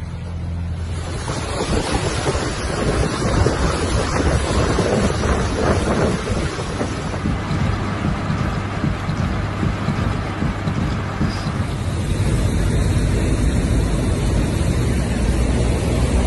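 Heavy downpour with wind buffeting the microphone: a loud, steady rushing noise that swells about a second in.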